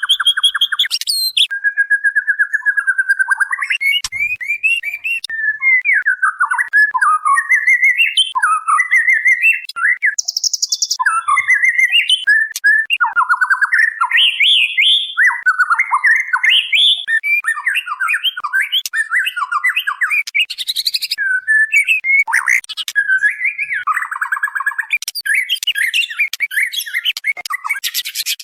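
Female white-rumped shama (murai batu) calling, a lure call for a male: a rapid, unbroken stream of varied chirps, trills and whistled notes that keep changing in pitch.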